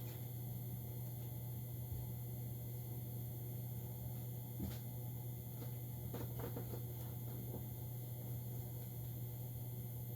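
Steady low hum of a 2011 Goodman gas furnace shutting down, with a few faint pops and ticks from its air ducts about halfway through.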